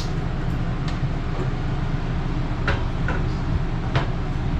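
A handful of separate sharp clicks, about a second apart, from the RV stove's spark igniter being worked to light the oven pilot, over a steady low rumble.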